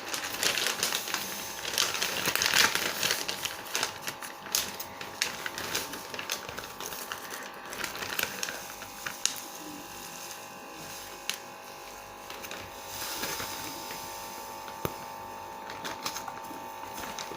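Washing powder being shaken from a paper packet into a washing machine's detergent drawer: a hissing rustle of pouring granules and crinkling packet with scattered light ticks, busiest in the first few seconds.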